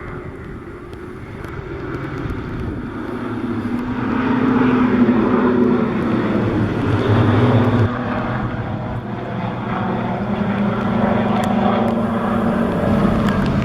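Piston engines of a formation of propeller aircraft flying past, several engine hums together, growing louder over the first few seconds and dropping suddenly about eight seconds in.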